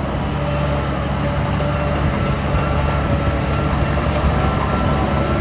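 Heavy diesel earthmoving machinery running steadily, a low engine drone with some fainter higher steady tones.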